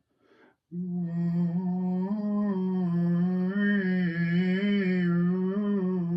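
A person's voice humming one long, gently wavering note after a short intake of breath.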